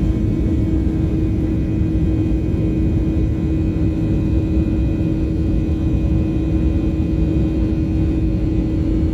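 Jet airliner's engines at takeoff power heard from inside the cabin: a loud, steady rumble with a constant droning hum.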